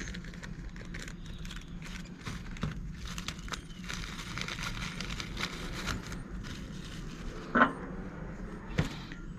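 Faint clicks and rustling from small parts and tools being handled, over a steady low hum, with two sharper clicks near the end.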